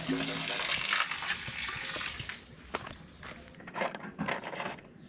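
Water running into a boat's freshwater tank from a hose, stopping about two seconds in, followed by faint scrapes and knocks.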